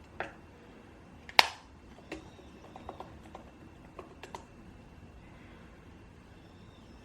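Small objects being handled on a desk: a few scattered light clicks and knocks over the first few seconds, with one sharper knock about a second and a half in.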